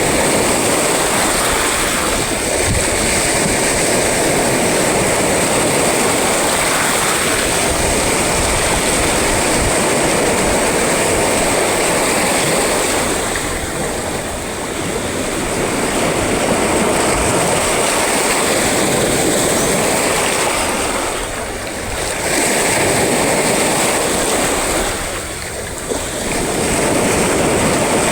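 Sea waves breaking and washing ashore in a loud, continuous rush that eases off briefly three times between breakers.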